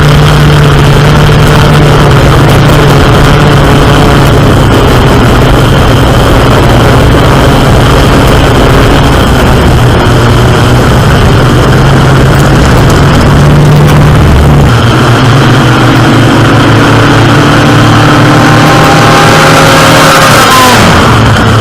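Airboat engines and propellers running hard: a loud, steady engine drone that shifts in pitch about two-thirds of the way through, with a rising tone as an engine revs up near the end.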